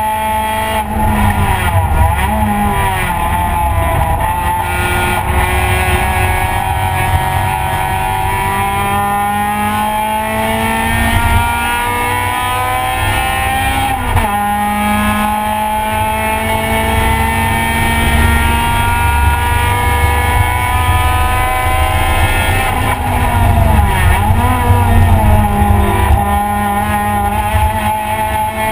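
Race car's engine heard from inside the stripped cabin under hard acceleration, its pitch climbing steadily and dropping sharply at a gear change about halfway through, with dips and quick blips where it slows for corners a couple of seconds in and again near the end.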